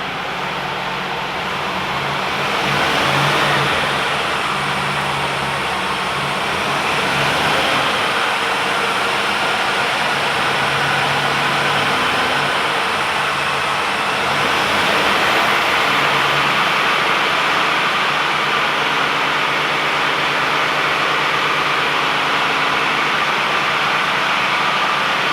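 A DAF XF480 truck's PACCAR MX-13 straight-six diesel engine running just after a cold start. It grows louder about two to three seconds in, then idles steadily with small changes in pitch.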